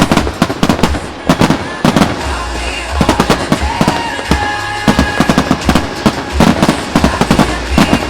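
Aerial fireworks exploding in rapid volleys, several sharp bangs a second, over the music played for the show.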